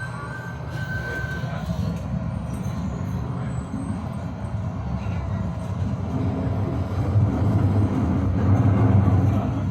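Tram running along its rails, a steady low rumble of wheels and running gear that swells louder toward the end. A few faint high squealing tones come in near the start.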